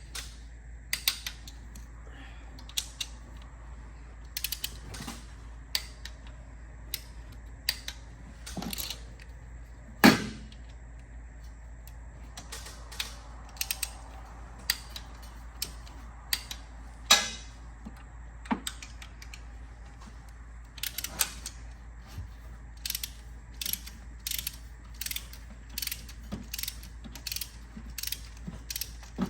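Ratchet wrench clicking in short runs as cylinder head bolts are tightened in sequence, with one louder knock about ten seconds in.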